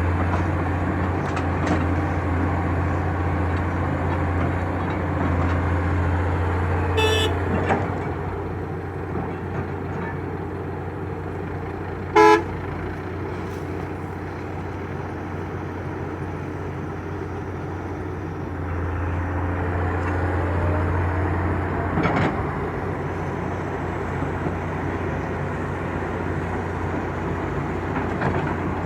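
Heavy machine engine running steadily, easing off about eight seconds in and picking up again near nineteen seconds. A vehicle horn gives two short toots, one about seven seconds in and a louder one about twelve seconds in.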